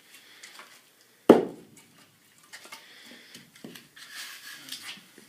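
Firewood being laid in a wood furnace's firebox: one loud wooden knock about a second in as a piece is set down, then a few lighter knocks and some rustling and scraping as more pieces are placed.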